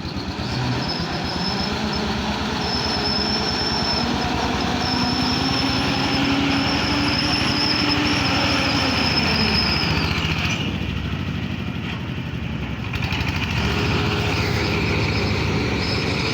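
A powerful engine running steadily, with fast even pulsing and a high steady whine over it. The whine stops and the engine note eases for a few seconds past the middle, then the engine picks up again.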